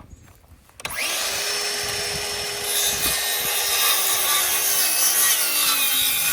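Power saw started about a second in and cutting 2x4 lumber, running with a steady whine that gets louder a couple of seconds later.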